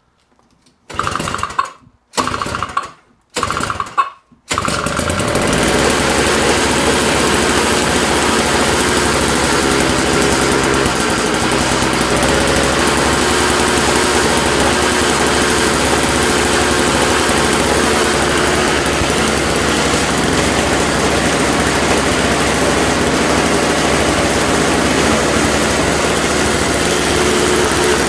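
Snowblower engine, its carburetor and spark plug freshly cleaned, cranked over three short times with the choke half on, catching on the third and then running steadily.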